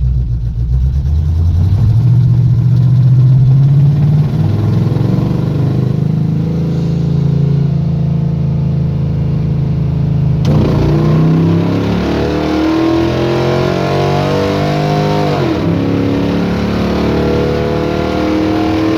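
Squarebody Chevy drag truck's carbureted engine pulling hard under acceleration, the engine note climbing with revs. About ten seconds in the throttle opens further and the note rises steadily, drops suddenly at a gear change near fifteen and a half seconds, then climbs again. The engine is running cleaner after a carburetor adjustment.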